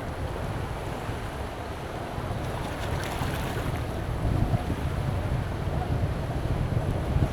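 Strong wind buffeting the microphone in a low, uneven rumble over the wash of surf on a beach, gusting harder from about four seconds in.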